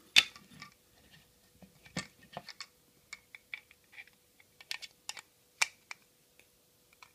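Small plastic toy-kit parts clicking and tapping as they are handled and fitted together, with a sharp click just after the start and scattered lighter clicks after it.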